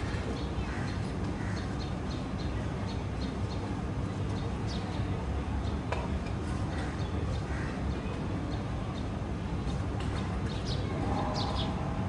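Small birds chirping: short, high chirps repeated over and over, a few louder ones about five seconds in and near the end, over a steady low rumble.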